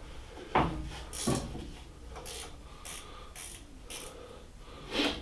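Socket ratchet wrench clicking in short strokes, about two a second, loosening a lathe motor's mounting bolt with a 7/16 socket. Two sharp metal knocks come before the ratcheting and a louder one near the end.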